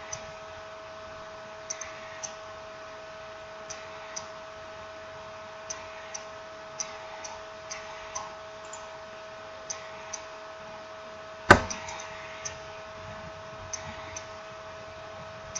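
Small irregular clicks of smartphone parts being handled during reassembly, with one much louder sharp click or snap about eleven and a half seconds in, over a steady faint electrical hum.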